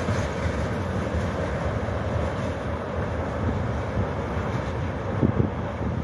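Freight train of open gondola wagons rumbling away along the adjacent track, its last wagons having just passed, with a steady rumble of wheels on rail. A brief low thump comes about five seconds in.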